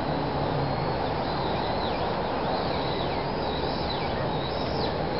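Steady background noise, with a bird calling over it from about a second and a half in: a run of short notes, each sliding down in pitch.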